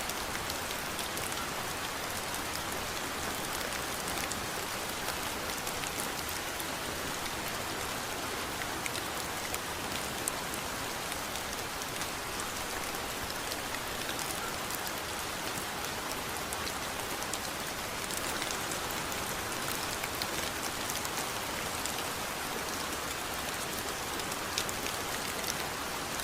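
Steady rainfall, a continuous hiss of rain with the pattering of individual raindrops hitting surfaces.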